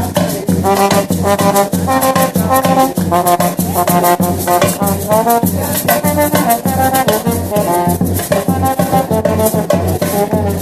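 Music with brass horns playing a melody over a steady drum beat of about two beats a second, with shakers.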